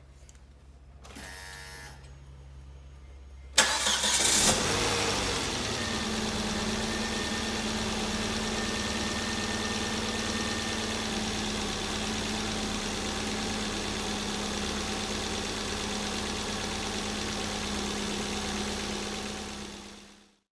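Volvo S40 1.8 petrol four-cylinder engine started after its oil change: a short whir about a second in, then it catches with a loud burst about three and a half seconds in. It runs at a raised idle that drops and settles within a couple of seconds, idles steadily, and fades out at the end.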